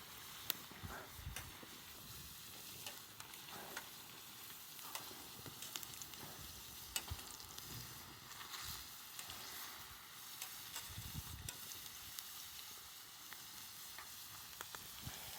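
Food sizzling in a pan over a campfire: a steady hiss with scattered small crackles.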